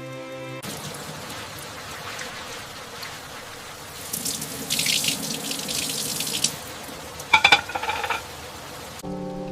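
Water running and splashing, growing louder for a couple of seconds midway, with a brief clatter of a few sharp knocks near the end.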